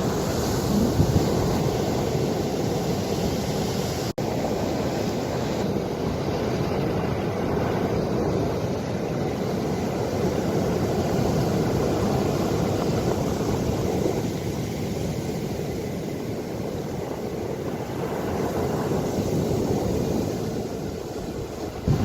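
Ocean waves washing in a continuous low rush that slowly swells and eases, with wind rumbling on the microphone. The sound cuts out for an instant about four seconds in.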